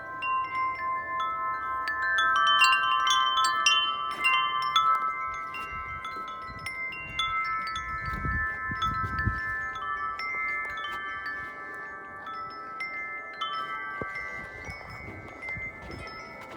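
Several large tuned wind chimes ringing in gusty wind: many overlapping, long-sustaining tones struck again and again, busiest and loudest a couple of seconds in and settling to a gentler ringing later. A brief low rumble from the wind comes about halfway through.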